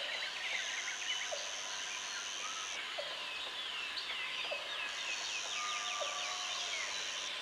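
Jungle ambience of birds and insects. Many birds give short falling chirps, with a quick rapid-fire run of them about halfway through. A high steady insect trill sounds over them, breaks off a little under three seconds in and starts again about two seconds later.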